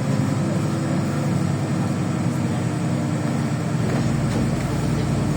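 LiAZ 5292 city bus engine and drivetrain droning steadily while driving, heard from inside the passenger cabin. The deepest rumble drops away right at the start and returns about four seconds in.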